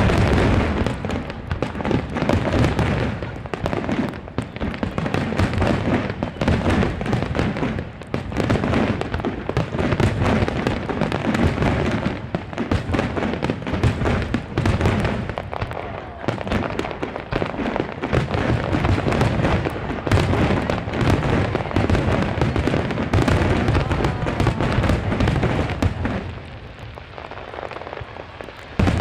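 Aerial fireworks shells bursting in a dense, continuous barrage of booms and crackles. The barrage thins briefly near the end before another loud burst.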